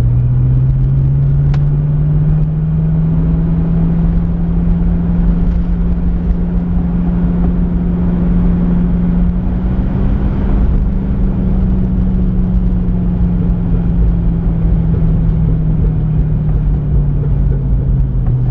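Pontiac Firebird's engine and exhaust droning steadily while driving. The pitch climbs gradually as the car speeds up over the first ten seconds or so, then slowly sinks again as it eases off.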